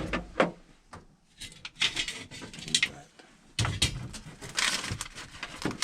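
Irregular knocks, clicks and short rustling noises of tools and parts being handled.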